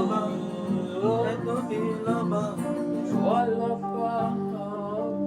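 Slow worship accompaniment led by guitar, with melodic guitar lines over held chords underneath.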